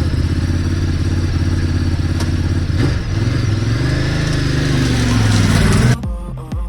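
Motorcycle engine running under way, with the rush of wind; the engine pitch climbs as it accelerates in the second half, then the sound cuts off suddenly near the end.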